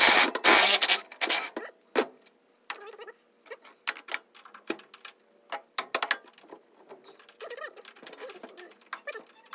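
Tools working on a car's drivetrain fittings: a loud burst of rapid mechanical clicking for about the first second and a half, then scattered sharp clicks and knocks of metal.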